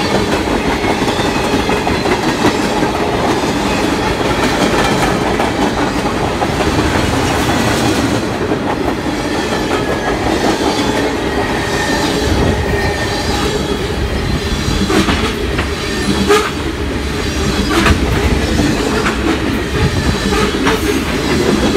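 Freight cars of a CSX mixed freight train, tank cars and gondolas, rolling past close by: a steady rumble of steel wheels on the rails with clickety-clack over the rail joints. Several sharp clanks come in the second half.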